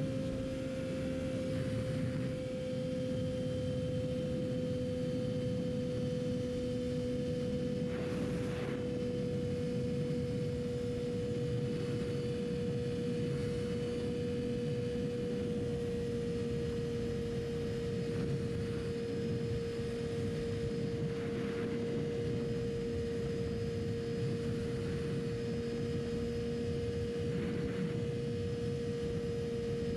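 Yamaha R6 inline-four sport bike engine running at a steady, high-pitched cruise, its note sinking very slightly over about thirty seconds, with wind rush behind it.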